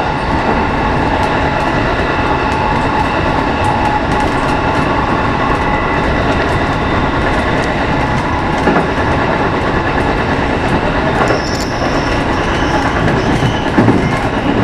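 JR West 207 series electric train running, heard from the cab: steady rolling rumble and motor whine with wheels clicking over rail joints. About eleven seconds in a high squeal joins, and near the end the wheels clatter over the station's points.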